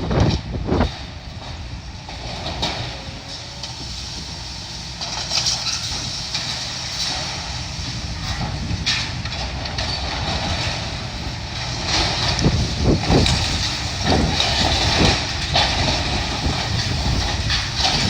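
Heavy demolition machinery running with a steady low engine rumble. Debris crunches and clanks in a short flurry about two-thirds of the way in.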